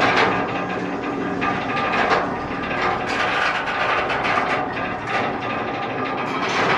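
Metal rattling and clanking of a moving freight train: a dense, irregular clatter.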